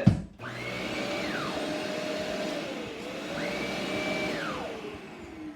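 Shark Navigator upright vacuum cleaner running, its brush roll switched on and off: a click, then a high whine that rises, holds and falls away, twice, over the steady motor noise. Near the end the motor's tone sinks as it winds down.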